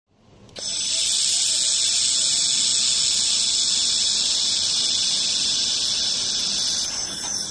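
Laser welding of metal square tube: a loud, steady, high-pitched hiss that starts about half a second in and stops near the end.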